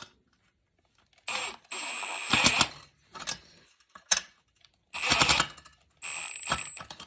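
Cordless drill/driver driving a screw down in two short runs, a high steady whine over rattling, with a couple of sharp clicks between the runs.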